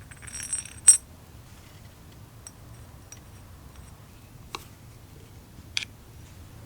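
Small metal parts clinking against a hard surface: a short rattle, then one sharp ringing clink, followed by two lighter clicks later on.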